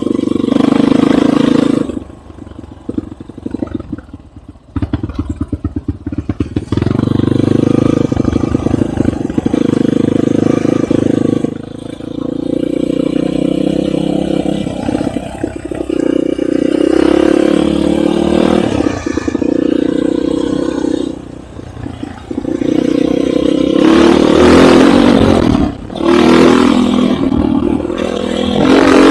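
Enduro motorcycle engine running under load, revving up and easing off again and again, with brief throttle-offs about two, twelve, twenty-one and twenty-six seconds in. A run of rapid rattling knocks around five seconds in.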